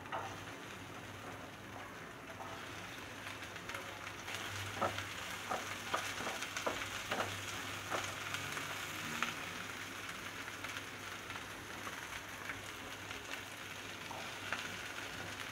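Cut okra shallow-frying in hot groundnut oil in a kadai, sizzling steadily. From about four seconds in, a spatula stirs the pieces, clicking sharply against the pan several times.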